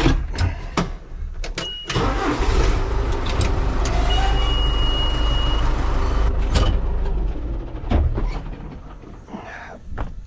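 A motor vehicle engine running steadily for about six seconds, then fading, with a thin high whine over it for a moment midway. A few sharp knocks come just before the engine sound.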